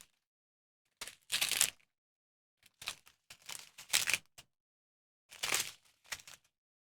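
Plastic packaging of a diamond painting kit being handled: short crinkling, rustling bursts, about six of them, separated by silent pauses.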